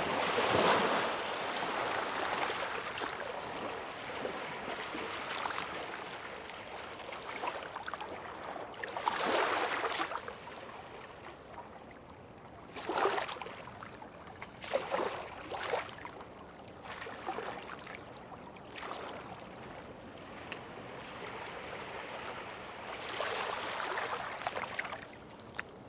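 Ocean waves washing onto the shore, with a steady hiss of surf. Bigger surges come at the start, about nine seconds in and near the end, with short sharp splashes in between.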